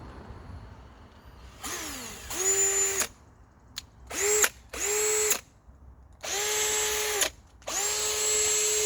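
Bauer cordless hammer drill running in five short trigger bursts, each spinning up to a steady whine and stopping. The last two bursts are the longest.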